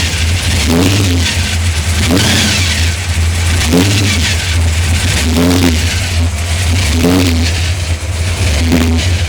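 Supercharged big-block Chevy V8 idling, with short throttle blips every second or two that make the revs rise and fall quickly.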